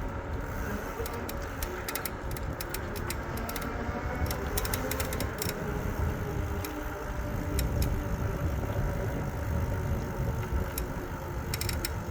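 Riding noise of a moving e-bike: a steady low rumble with many short, light rattling clicks scattered through it, thicker at the end.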